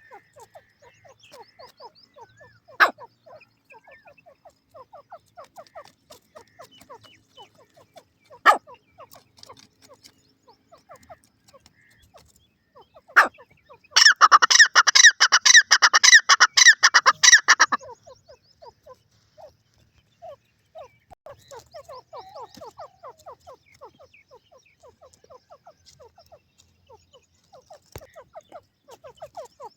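Francolin (teetar) calling: three loud, sharp single notes a few seconds apart, then a loud, harsh run of rapid notes lasting about four seconds. Faint, quick chattering of other calls runs underneath.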